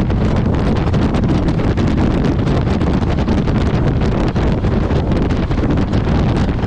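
Wind rushing over the microphone of a moving motorcycle: a steady, deep, fluttering rush that covers the engine and road noise.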